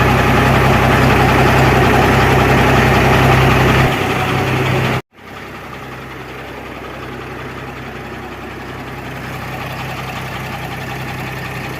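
Tata Cummins truck diesel engine running steadily after its leaking head gasket was replaced. The sound drops in level about four seconds in, cuts out briefly about a second later, then carries on quieter and steady.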